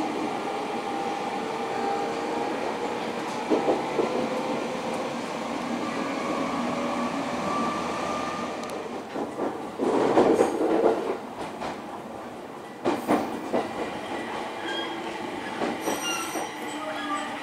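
Electric local train running on the rails, heard from inside the car: steady running noise with a whine that slides slowly in pitch. The wheels squeal loudly for about a second around ten seconds in, and a few sharp knocks from the wheels and rails come before and after.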